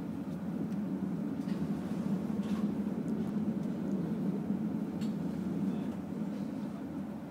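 Steady low rumble of a moving passenger train heard from inside the carriage, with a few faint ticks.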